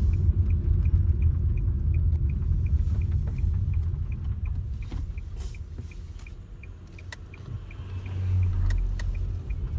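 Low rumble of a motor vehicle, dipping in the middle and swelling again near the end, with a faint regular high tick or beep about three times a second and a few scattered clicks.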